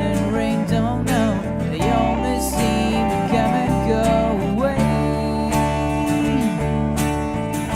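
Live acoustic band playing: strummed acoustic guitars under a melody line that slides up and down in pitch.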